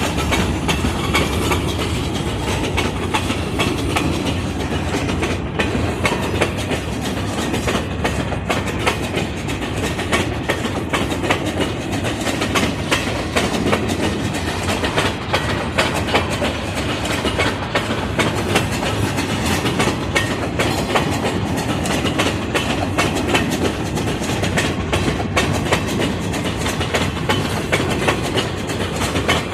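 A ballast train's cars rolling past, wheels clicking and clattering steadily over the rail joints.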